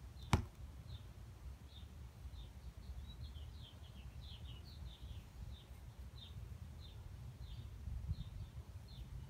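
Faint bird chirping, short high chirps about once or twice a second, over a low steady rumble, with a single sharp click about half a second in.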